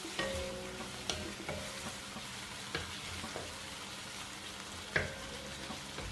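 Diced chicken sizzling in olive oil in a pot as it is stir-fried, with a utensil clinking and scraping against the pot several times; the sharpest knock comes about five seconds in.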